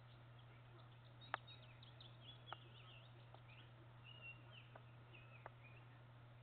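Faint songbird chirping and twittering, broken by five sharp clicks, the loudest about a second in, over a steady low hum.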